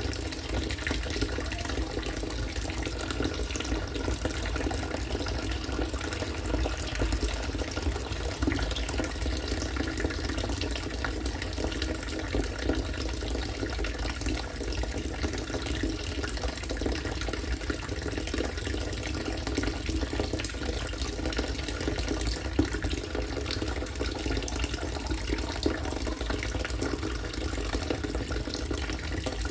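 Harvested rainwater pouring in a steady stream, splashing and bubbling as it falls into water.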